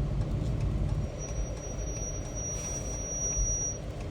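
Driving noise heard from inside a Ram dually pickup hauling a truck camper: a steady low rumble of engine and tyres on the road. A thin, steady high-pitched whine comes in about a second in and fades near the end.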